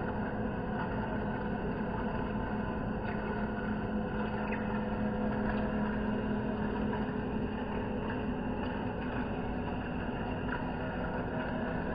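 Lathe running steadily, a constant mechanical hum with a strong low tone and a few faint ticks.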